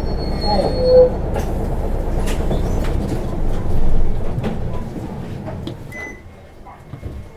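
Isuzu Erga city bus heard from inside the cabin, slowing to a stop: the running noise of road and drivetrain fades away over about five seconds, with a brief brake squeal about a second in, leaving the quieter engine idle.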